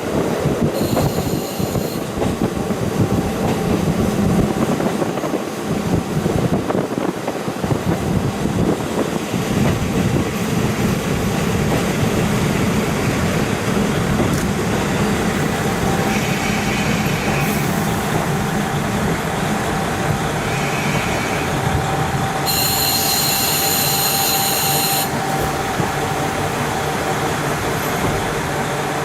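KiHa 40 diesel railcar running along the line, heard through a wide-open window: a steady rumble of wheels on rail and engine. A few brief high-pitched squeals come and go, the longest and loudest about three-quarters of the way through.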